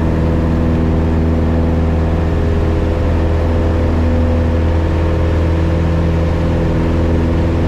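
Piper Cherokee 180's newly installed four-cylinder Lycoming engine and propeller running steadily at full takeoff power as the plane lifts off and climbs out, the engine in its break-in period.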